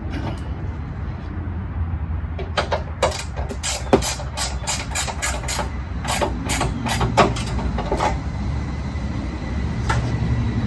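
Hand ratchet clicking in a run of quick strokes, a few sharp clicks a second, then stopping, with a couple more clicks near the end. A steady low rumble runs underneath.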